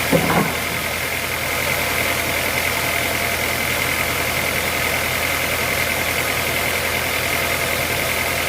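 Sawmill machinery running steadily with an engine-like drone and a constant high whine, with one short knock just after the start.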